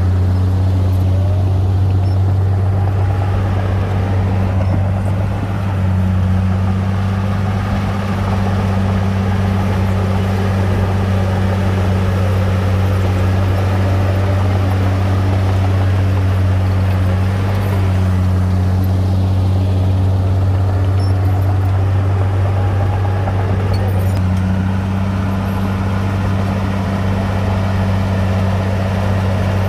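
Heavy diesel engine of earthmoving machinery running steadily under load, a deep continuous drone with slight changes in pitch as the load shifts.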